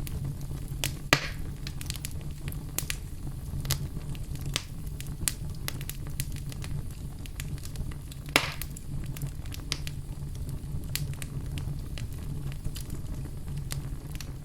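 Fire burning in a fireplace, crackling steadily over a low rumble, with two louder pops, about a second in and about eight seconds in.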